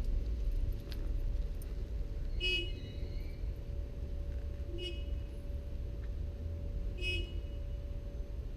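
Yamaha XS400's parallel-twin engine idling with a steady low rumble. Three short, high chirps come at even intervals, about two seconds apart.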